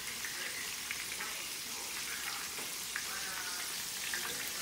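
Flour-dredged pieces frying in hot grease in a pan: a steady sizzle with small pops now and then.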